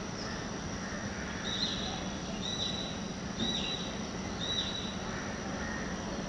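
A bird calling four times, about once a second, each a short high call that drops at the end, over a steady outdoor background hum.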